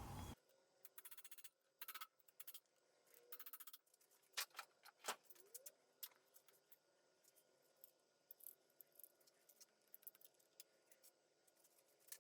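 Near silence broken by faint scattered clicks and a few short metallic rattles from hand tools and engine parts being handled.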